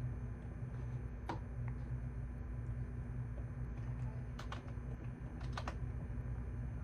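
Sparse computer keyboard keystrokes: a single click about a second in, then two short runs of a few clicks past the middle, over a steady low hum.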